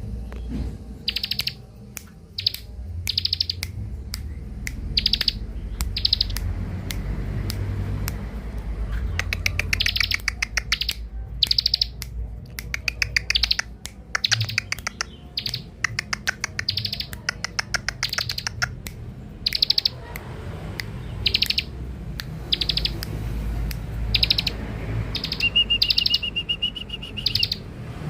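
Bar-winged prinia (ciblek) calling: short bursts of rapid ticking chips, repeated about once a second, with a steady held note near the end. A low rumble runs underneath.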